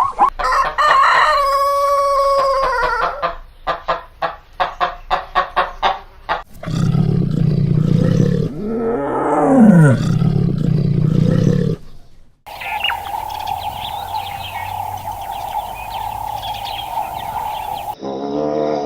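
A string of short chicken sound clips: a rooster crowing for about three seconds, followed by quick repeated clucking. After that the sound cuts to other animal noises with a falling cry, and then a steady hum.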